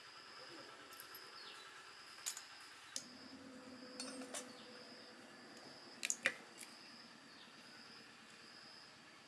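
Scattered light metallic clinks and taps of tools or small parts being handled, the loudest few about six seconds in, over a steady high insect drone that dips briefly about every second and a half.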